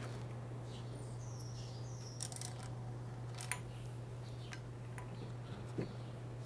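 Faint clicks and light metal taps of hand work on an engine as small screws and parts are fitted, over a steady low hum, with birds chirping in the background.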